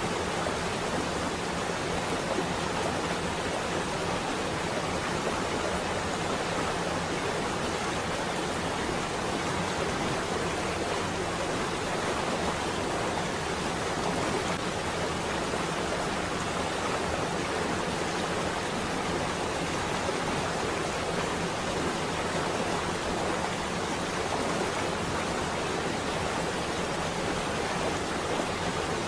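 Steady rain on a window: an even, unbroken hiss.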